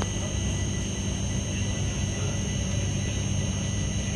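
Low, steady rumble of an Indian Railways express train rolling slowly out of a station, heard from an open coach doorway, with a thin steady high-pitched whine over it.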